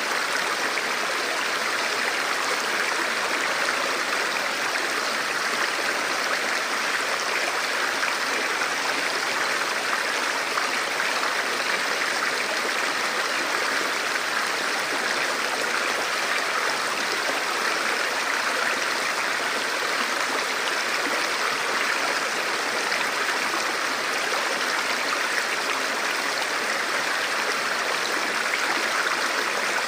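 Forest stream or small river flowing over rocks: a steady rush of water with no change in level.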